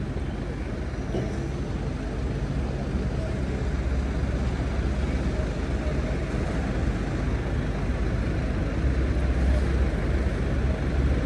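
Steady rush of wind on the microphone while riding a fat-tyre e-bike, with rolling road noise underneath; it grows slightly louder toward the end.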